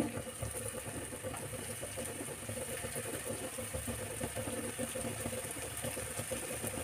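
Cornflour-and-maida-coated paneer cubes sizzling with a steady crackle as they shallow-fry in hot oil in a nonstick pan, while more pieces are laid in one at a time.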